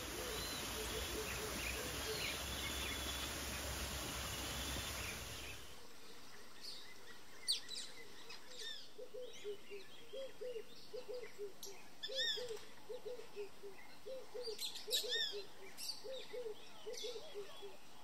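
Birds calling: scattered sharp chirps and quick sweeping whistles over a string of short, low repeated notes. For the first five or six seconds a steady rushing noise lies under the calls, and it cuts off suddenly.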